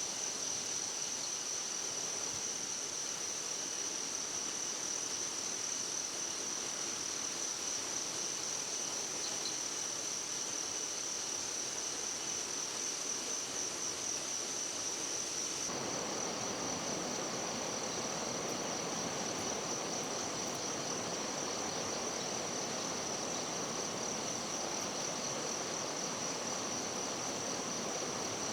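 Forest insect chorus: a steady, high, pulsing trill. Just past halfway an even rushing of running water abruptly joins beneath it.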